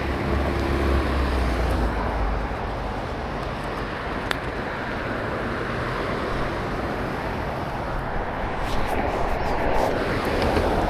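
Road traffic on rain-soaked streets: a steady hiss of tyres and rain over a low engine rumble.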